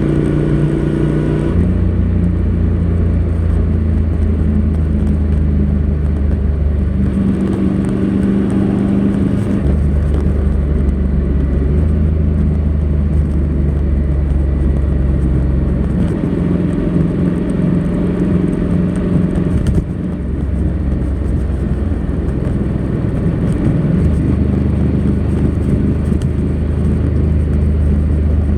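Honda NC700X's 670 cc parallel-twin engine on its stock exhaust, running under way, its note settling at a new engine speed every few seconds.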